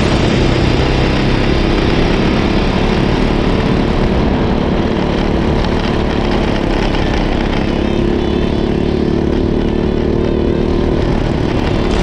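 Go-kart engine running steadily, its pitch holding fairly level with only small shifts.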